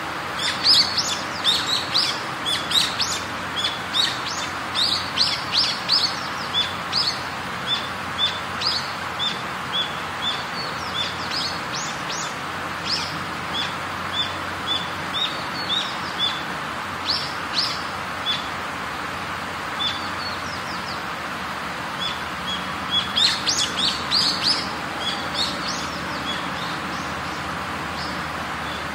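Small birds chirping repeatedly: quick runs of short, high chirps and one repeated short note, thickest about a second in and again past the twenty-second mark, over a steady background hiss.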